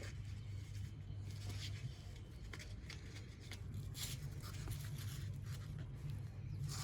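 A kitten pawing, clawing and biting at a rubber sandal: irregular light scratches and taps over a steady low hum.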